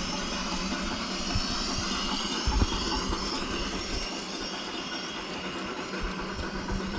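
Battery-powered model locomotive with a Blunami sound receiver running, giving a steady hissing train sound, with irregular low thumps, the loudest about two and a half seconds in.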